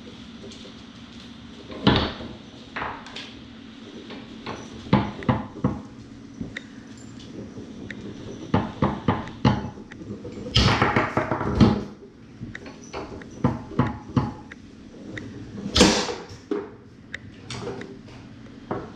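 Foosball being played on a Tornado table: the ball is struck by the plastic men and knocks against the table walls in irregular sharp clacks. There is a quick flurry of hits around the middle and one loud bang near the end.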